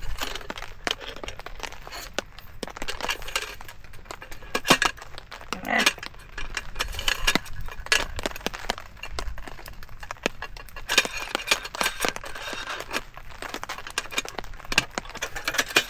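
Parts of a collapsible camp table clinking, rattling and knocking as they are handled and fitted together, in many small irregular knocks.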